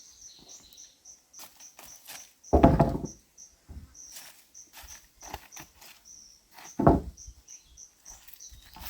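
Two dull thuds about four seconds apart, the first longer and heavier, with scattered light clicks between them. Behind them runs a steady high insect chirping, about four chirps a second.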